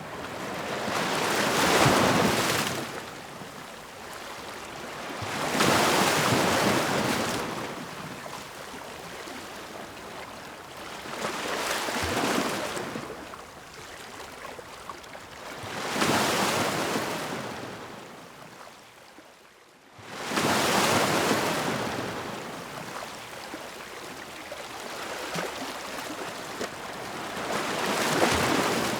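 Ocean waves breaking and washing in, one swell of surf hiss every four to six seconds. There is a brief lull about two-thirds of the way through, then the next wave comes in abruptly.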